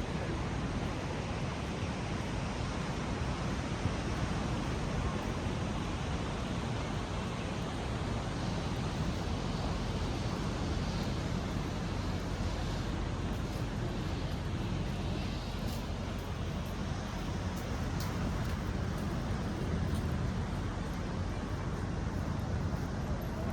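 Steady beach ambience: ocean surf and wind, with a deep rumble of wind on the microphone.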